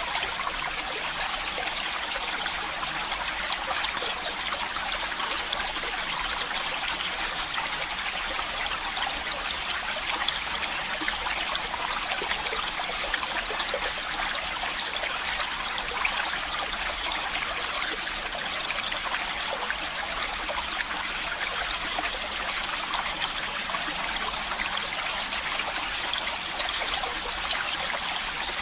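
Stream of running water trickling and splashing steadily, with many small splashes and no change in level.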